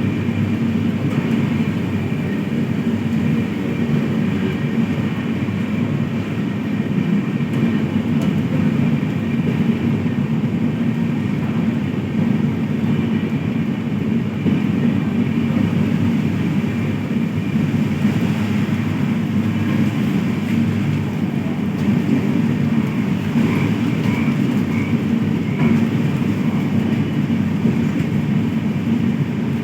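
Passenger train running along the tracks: a steady low rumble of the moving train.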